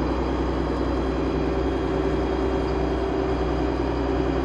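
Steady running hum of a motor yacht's engines and onboard generator, an even low drone with no change in pitch.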